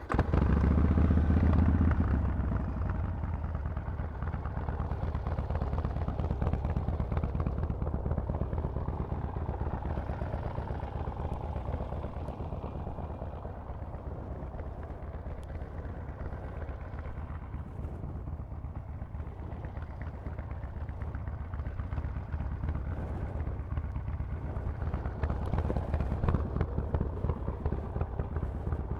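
Harley-Davidson Forty-Eight V-twin through a loud Vance & Hines exhaust, firing up with a loud burst and then running steadily at idle. It grows somewhat louder again near the end.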